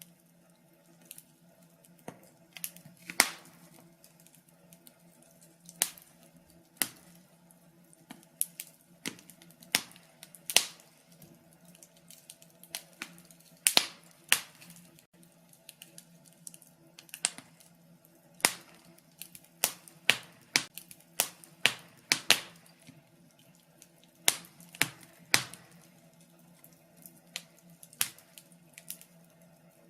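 Wood fire crackling in a fireplace: irregular sharp pops and snaps, a few every second or two, some much louder than the rest, over a faint steady low hum.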